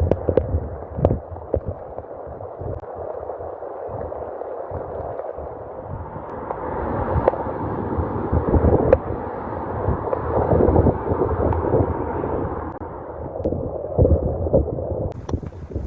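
Rainwater running and gurgling in a continuous muffled wash, with scattered clicks and knocks. It swells louder through the middle.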